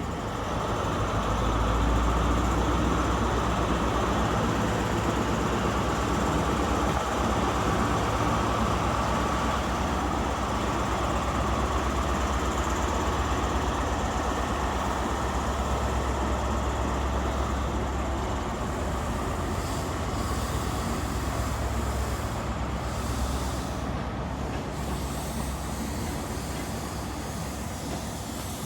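Diesel engine of a CrossCountry HST's Class 43 power car, running with a low steady drone that builds about a second in and eases off after about eighteen seconds.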